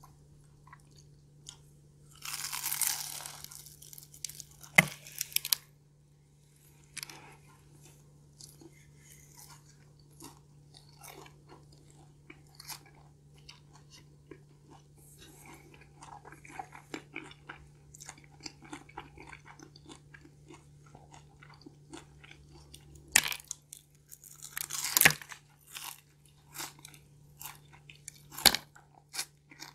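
Close-miked bites into a crispy pastry tart filled with cream cheese and hazelnut. There is a loud crunch about two seconds in, then slow chewing with small wet mouth clicks, and more sharp crunchy bites near the end.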